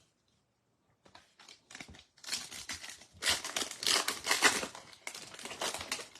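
Foil wrapper of a trading card pack being torn open and crinkled in the hands, starting about a second in and busiest in the middle.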